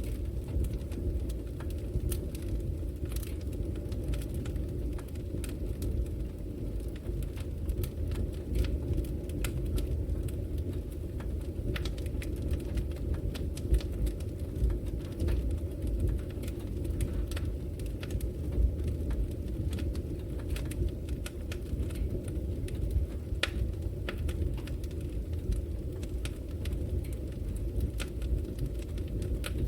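A fire burning in a fireplace, crackling with frequent irregular sharp pops and snaps over a steady low rumble of flame.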